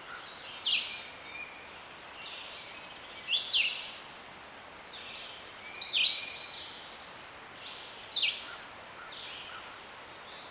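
Red-eyed vireo singing: short, separate song phrases, four louder ones spaced about two and a half seconds apart with fainter phrases in between, some of which can sound like a northern flicker's clear call.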